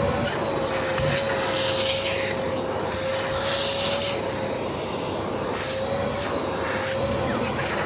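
Vacuum cleaner running with a steady motor whine while its nozzle is pushed back and forth over carpet, the rubbing hiss swelling with each stroke.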